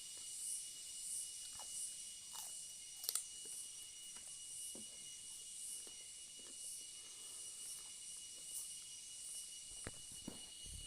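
A person chewing boiled vegetables, with scattered soft mouth clicks and crunchy bites, the sharpest a double click about three seconds in. Behind it runs a steady high hiss that pulses about twice a second.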